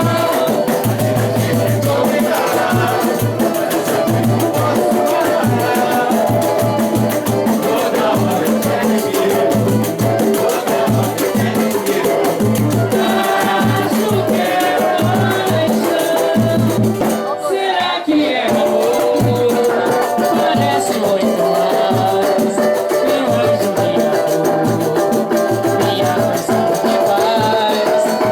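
Live samba music with a shaker keeping a steady rattle over pulsing bass notes and melody. The texture thins briefly about seventeen seconds in, then picks up again.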